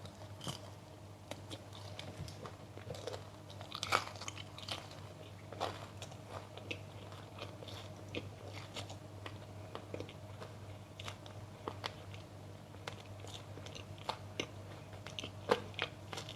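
Close-miked biting and chewing of crunchy food: irregular sharp crunches, a few every second, over a steady low hum.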